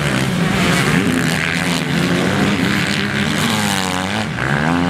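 Motocross motorcycle engines racing, revving up and down together; near the end one bike's engine note dips and rises again as it passes.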